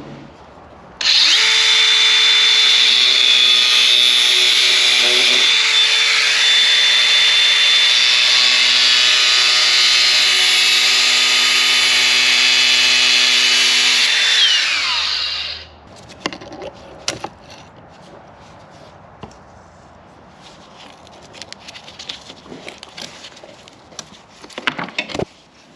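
A handheld power tool runs at full speed for about fourteen seconds, then winds down, while a rusted part is cut out of the Hilux chassis. Scattered light knocks and clicks of metal being handled follow.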